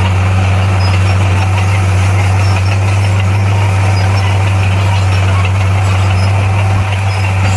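Diesel engine of heavy earthmoving equipment (bulldozer or motor grader) running steadily: a constant low drone with engine noise over it, dipping slightly near the end.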